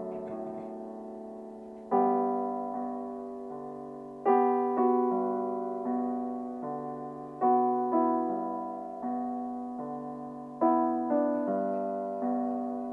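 Background music: slow solo piano, chords struck about every two to three seconds and left to ring and fade.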